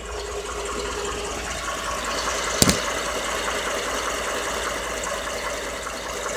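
Ford 5.0 Coyote V8 running with a ticking and knocking that the owner takes for valve tick and an engine knock. A single sharp click comes about two and a half seconds in.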